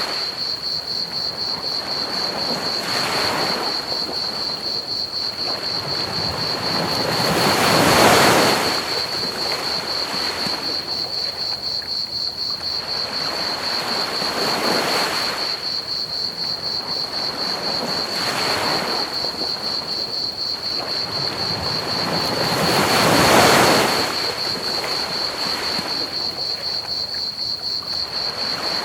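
Ocean waves breaking and washing up a beach every few seconds, the two biggest about eight and twenty-three seconds in. Underneath runs a continuous high, fast-pulsing chirp of crickets and a steady hiss of pink noise.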